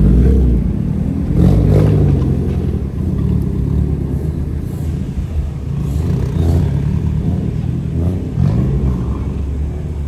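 Car engines idling with a low rumble, with several short revs that rise and fall.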